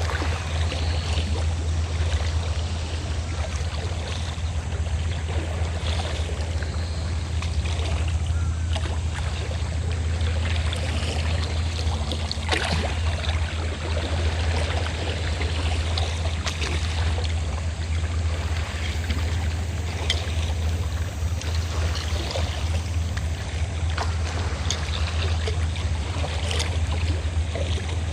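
Fishing boat engine running with a steady low drone, over seawater lapping and splashing with short irregular splashes.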